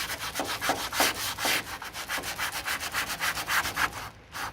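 Body filler on a car door sill being sanded by hand: rapid back-and-forth rasping strokes, about three or four a second, with a short pause near the end.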